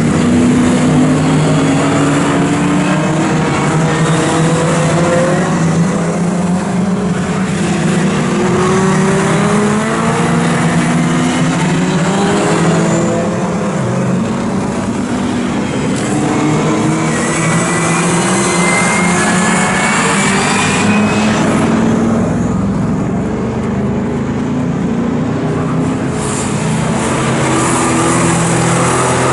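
Historic pre-1966 touring car racing engines at full throttle. Their pitch climbs through each gear, drops at the shift, then climbs again, over and over.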